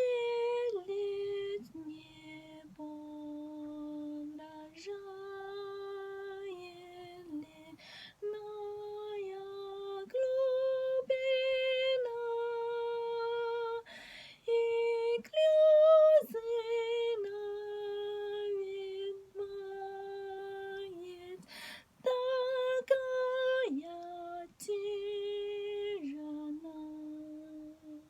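A high voice singing a slow, unaccompanied melody as a series of long held notes, with short pauses between phrases.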